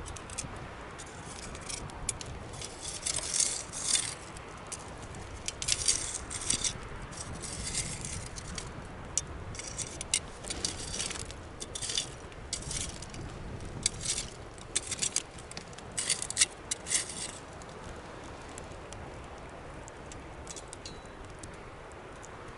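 Clinking and rattling of small hard objects being handled, in irregular clusters for about the first seventeen seconds, then only a steady low background.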